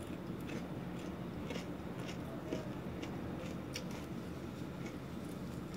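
Eating sounds: a person chewing, with scattered soft mouth clicks and smacks at irregular intervals over a steady low hum.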